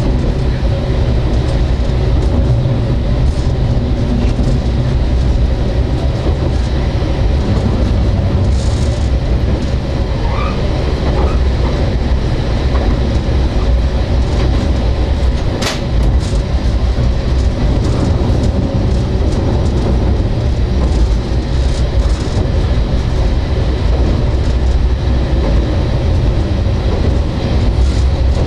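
Sanriku Railway diesel railcar running along the line, heard from inside the cab: a steady low rumble of engine and wheels with scattered clicks from the rails, and one sharp click about halfway through.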